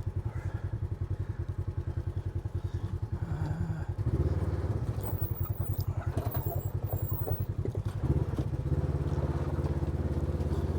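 Engine of a small off-road vehicle running as it is driven over a flood-damaged dirt road, throttled up about four seconds in and again about eight seconds in.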